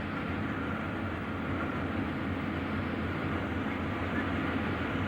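Diesel locomotive running steadily with a low rumble during switching.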